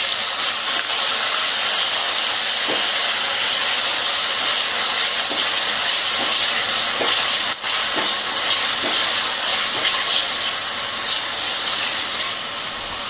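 Cubed raw potatoes sizzling steadily in hot oil with cumin seeds in a kadhai, just after being added, easing slightly toward the end. A few light taps of the silicone spatula stirring them.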